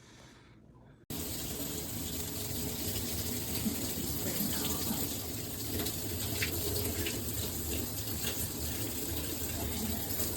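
Water spraying steadily from a Luxsego filtered handheld shower head, an even hiss that starts abruptly about a second in.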